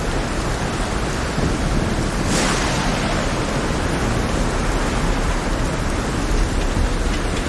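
Heavy rain and rough sea waves making a steady, dense rushing noise, with one brief sharper burst about two seconds in.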